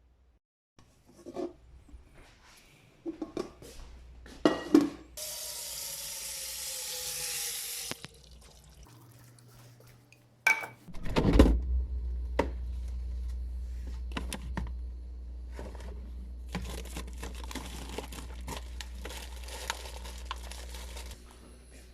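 Everyday household handling sounds: a few knocks, then water running for about three seconds, then a steady low hum from an appliance for about ten seconds with small clicks over it, stopping near the end.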